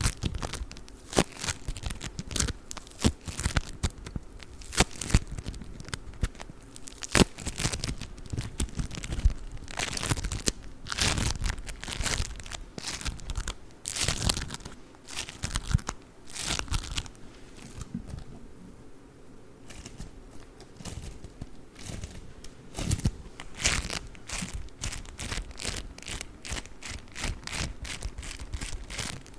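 Play foam, the bead-filled modeling foam, squished, kneaded and pulled apart close to the microphone, giving dense crackling and crunching. It eases off briefly about two-thirds of the way through.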